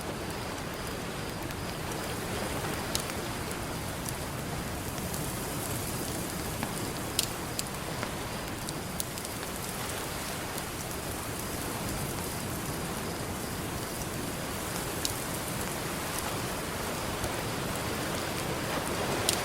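Campfire crackling, with a handful of sharp pops scattered through it, over a steady rushing wash of ocean surf.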